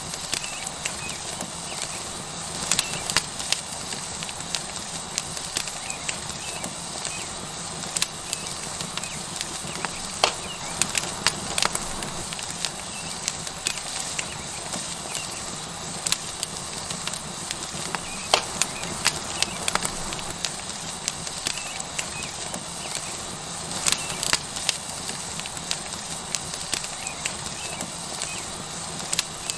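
Tomahawk steak sizzling on a hot rock over a wood fire: a steady hiss with sharp, irregular crackling pops from the burning wood.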